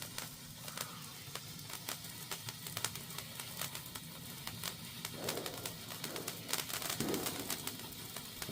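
Ice fountain sparkler burning, a fizzing run of fast, irregular tiny crackles and ticks. Two soft low sounds come in the background about five and seven seconds in.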